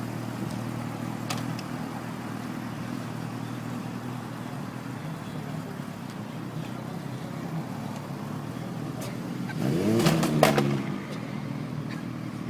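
Motorcycle engine idling steadily, briefly revved up and back down about ten seconds in.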